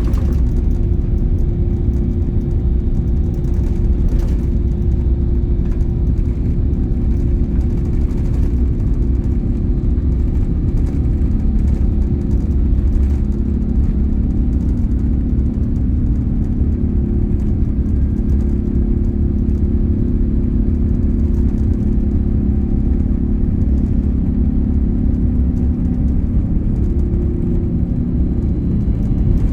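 Airbus A350's Rolls-Royce Trent XWB jet engines running with a steady deep rumble and a low, even hum, during take-off.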